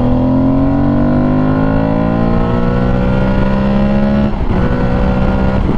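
2022 Aprilia Tuareg 660's parallel-twin engine accelerating hard under a fourth-gear throttle roll-on from about 4,000–5,000 rpm. Its pitch rises steadily for about four seconds, then holds at a slightly lower pitch. The pull is smooth and linear, with no flat spots.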